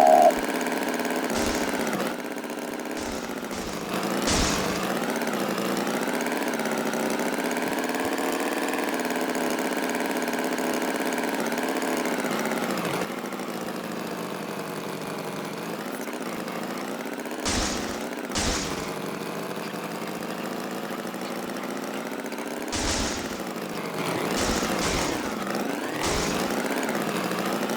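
An engine running steadily, its pitch drifting slightly up and down, with a few brief noisy bursts over it.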